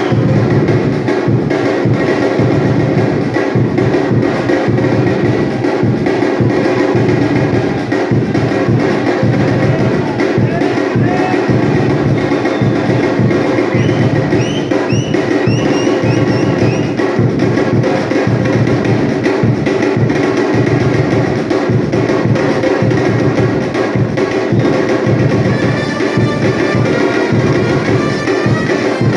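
Batucada percussion ensemble playing a continuous drum rhythm at steady volume.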